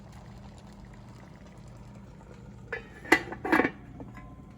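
A few sharp clatters of utensil and cooking pot, three or four knocks about three seconds in, over a faint steady hum.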